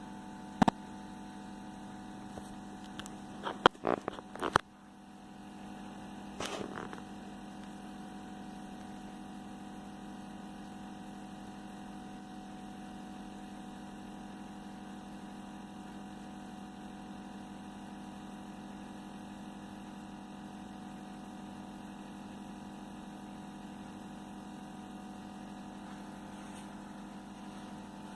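Steady electrical hum, with a few sharp clicks and knocks in the first seven seconds.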